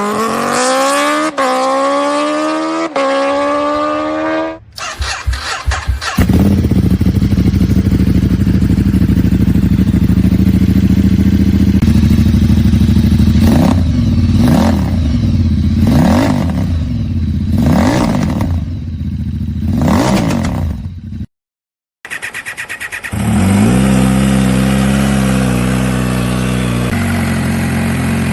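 Superbike exhausts in a string of clips. First a bike accelerating hard, its pitch climbing with two brief dips at gear changes, then cut off. Then a bike running loud with repeated throttle blips, revs rising and falling; after a short silence, another bike idling with a rev near the end.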